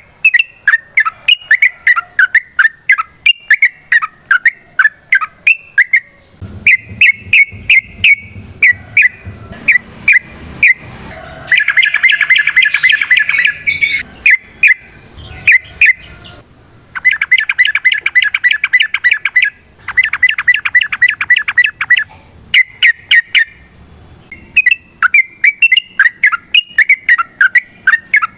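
Yellow-vented bulbul (trucukan) singing: loud, bubbly chirping phrases, broken by three long, fast trills (ropel) about twelve, eighteen and twenty-one seconds in.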